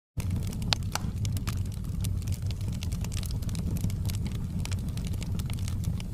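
Wood fire burning in a fireplace: a steady low rumble of flames with frequent small crackles and a few sharper pops, the loudest about a second in. The sound cuts in after a split second of silence.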